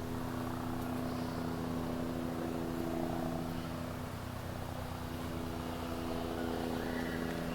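Steady engine hum with an even, unchanging low drone, like an engine idling.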